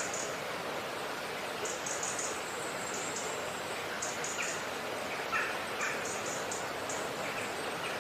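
Steady outdoor background noise with short, high bird chirps scattered through, roughly one every second.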